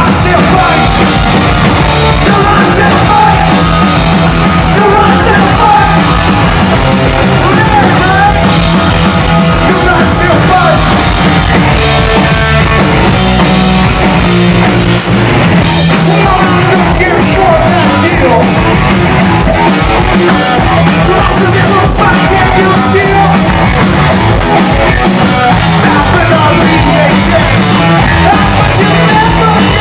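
Live rock band playing loud, with sung and shouted vocals over guitars, bass and drums.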